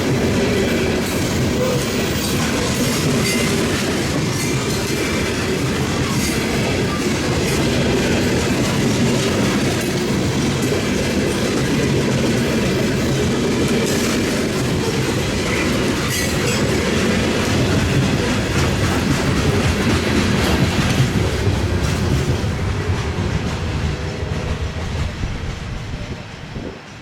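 Freight train cars rolling past, their wheels clacking over the rail joints with some wheel squeal. The sound fades near the end as the train moves away.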